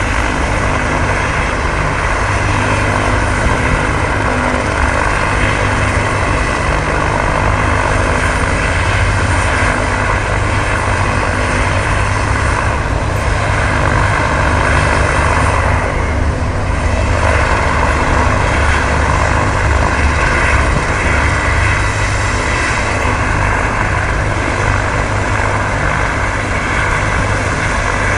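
Life Flight medical helicopter's rotor and turbine running loud and steady at close range, with a deep steady thrum under a dense rushing noise.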